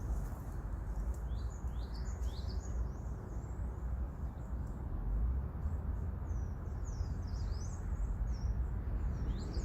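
Small birds chirping outdoors in a rapid series of short, quick calls, over a steady low rumble and noise.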